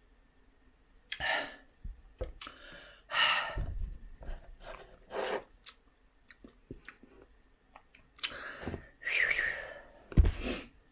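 Irregular rustling and rubbing noises with scattered sharp clicks, starting about a second in.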